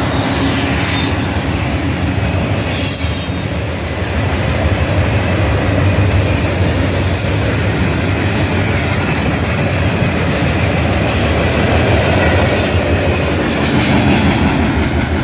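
Freight train rolling past close by: a steady, loud rumble of steel wheels on the rails that grows a little louder about four seconds in.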